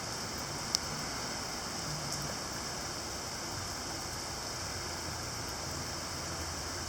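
Heavy rain coming down in a steady, even hiss, with one sharp tick just under a second in.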